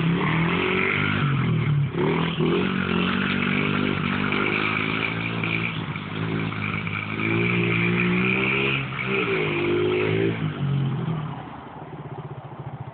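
Mini bike's small engine being revved up and down several times, then settling back to idle about eleven seconds in.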